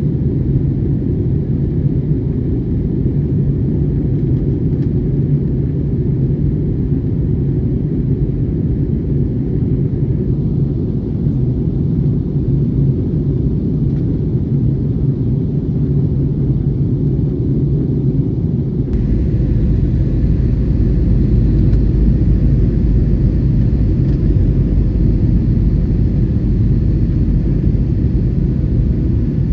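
Steady low rumble of engine and airflow noise inside an Airbus A321's passenger cabin. About nineteen seconds in it abruptly turns heavier and deeper.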